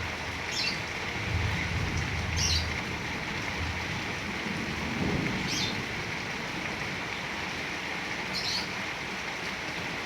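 Heavy rain falling steadily, with a bird giving four short high chirps spread through it. A low rumble rises under the rain about a second in and again near the middle.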